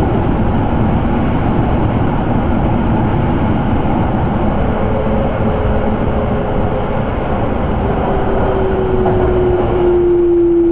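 Electric commuter train running on the rails, a steady low rumble of wheels and car body. About halfway in, a thin motor whine appears and slowly falls in pitch as the train slows for a station.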